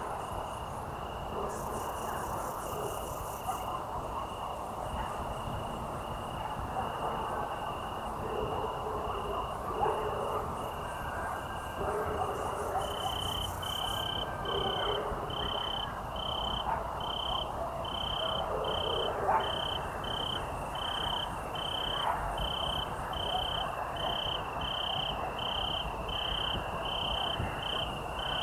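Evening field crickets chirping: one steady, evenly pulsed high chirp, with a second, louder pulsed chirp joining about halfway through at around two pulses a second. Twice a brief, very high, fast buzz from another insect cuts in over a soft background haze.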